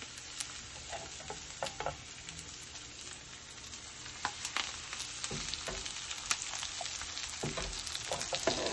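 Breaded chicken breast frying in hot avocado oil in a cast iron pan: a steady sizzle with scattered crackles and pops, getting louder in the second half as the chicken goes into the oil skin side down.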